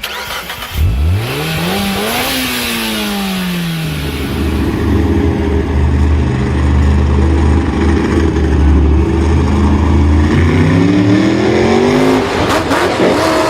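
An engine revs up and then drops back, runs steadily at a low note for several seconds, and then revs up again near the end.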